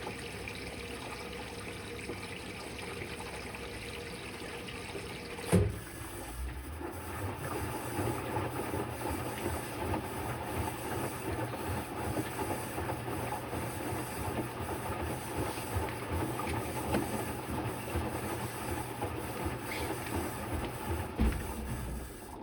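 Electrolux Quickwash commercial washing machine on a rinse cycle: a steady hiss of water coming in, then a single knock about five seconds in. After that the drum turns the load in water over a low motor hum.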